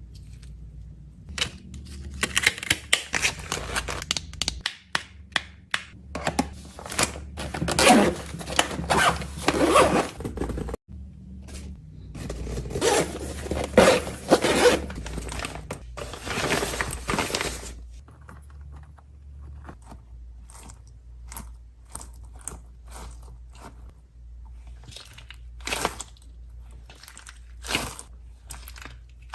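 Hands packing food and snack items: rustling, crinkling and tearing of wrappers, scrapes, and small clicks and knocks as things are set down and fitted into a container.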